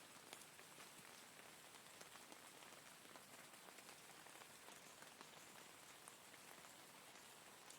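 Steady rain at low volume: an even hiss with many small drops ticking on a surface.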